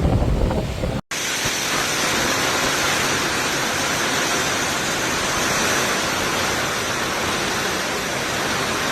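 Wind buffeting the microphone with a low rumble, cut off about a second in, then a steady, even rushing hiss with little bass.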